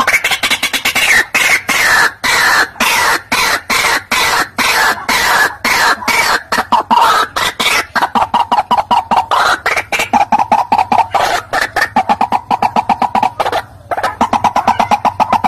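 White-breasted waterhen calling: a loud, rapid, continuous chatter of harsh repeated notes, about four to six a second.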